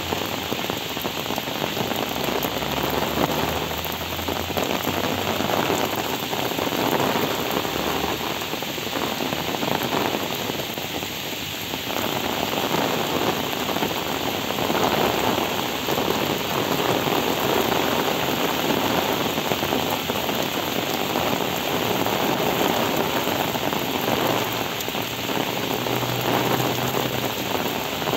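Heavy rain pouring down, a steady dense hiss of drops splashing on wet pavement and puddles.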